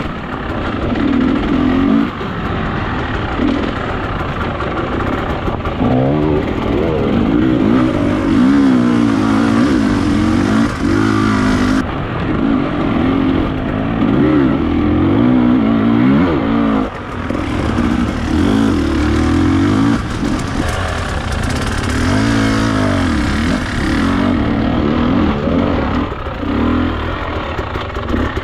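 Enduro dirt bike engine running under load, its pitch rising and falling again and again as the throttle is opened and closed.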